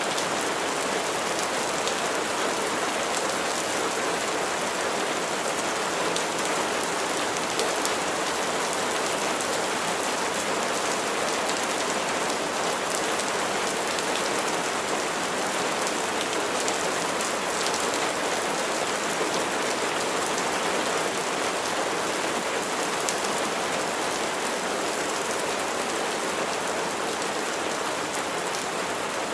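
Steady rain falling on a surface, an even hiss with fine drop patter that does not change.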